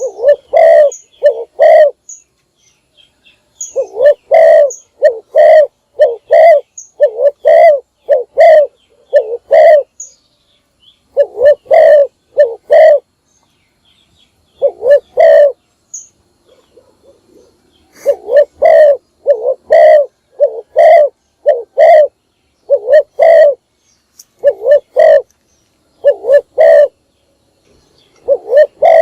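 Spotted dove cooing: runs of loud, low, repeated coo notes broken by pauses of a second or two. This is a decoy dove's call, used to draw wild doves in.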